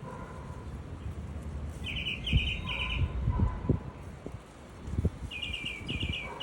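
Small birds chirping: two bursts of quick repeated high chirps, one about two seconds in and another near the end. Low bumps and rumble sit underneath.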